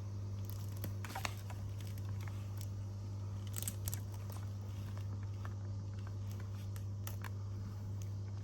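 Scattered light scratches and clicks over a steady low hum, with the loudest scratches about a second in and again near four seconds.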